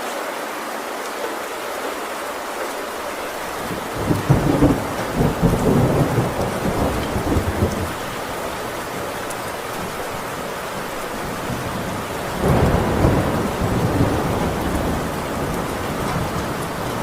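Heavy rain drumming steadily on a metal roof, with two rolls of thunder: one about four seconds in that rumbles for several seconds, and another starting about twelve seconds in.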